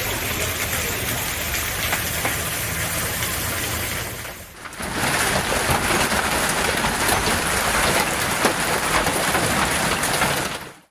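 Hail pelting down, a dense clatter of countless small impacts. It drops away briefly about four and a half seconds in, comes back louder, and cuts off suddenly at the end.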